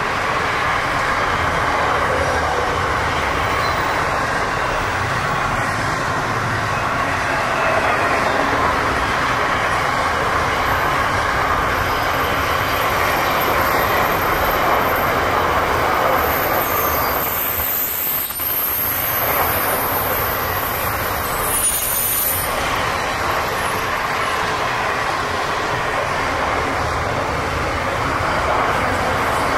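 Container wagons of a long freight train rolling past, a steady rumble and rattle of steel wheels on rail. A high-pitched wheel squeal rises over it a little past halfway and fades a few seconds later, as the wagons come off the curves.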